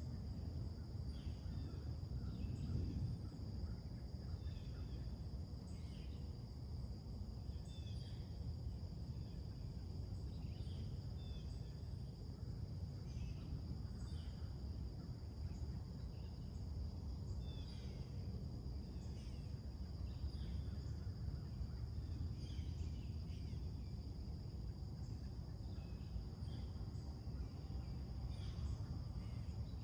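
Birds chirping and calling in short scattered notes over a steady high drone of insects, with a constant low rumble of background noise beneath.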